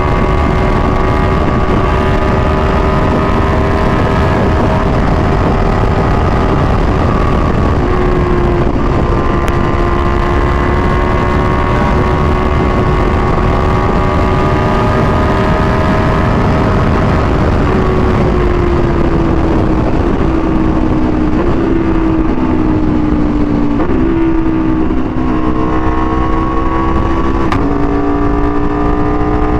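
Aprilia Tuono V4 1100's V4 engine through an SC-Project exhaust, held at steady revs for over half the time. The revs then fall over several seconds, with a few quick upward jumps as it is shifted down, and settle lower, with a steady rushing noise underneath.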